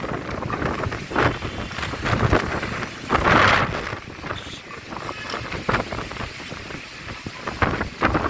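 Storm wind gusting and buffeting the microphone, with rain falling; the gusts come and go, the strongest about three seconds in.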